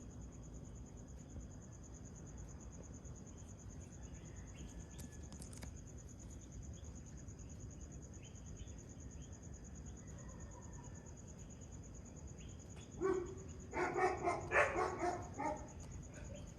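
Steady high-pitched insect chirring in the pre-dawn, with a few faint bird chirps. About thirteen seconds in, a dog barks several times in quick succession.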